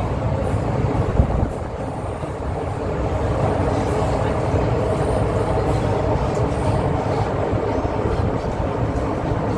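MTR M-Train electric multiple unit running between stations, heard from inside the carriage: a steady rumble of wheels on track with motor noise.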